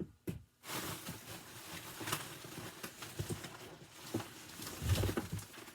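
Rustling and handling of packaging, with small clicks and light knocks and a dull thump near the end, as items are moved and set down.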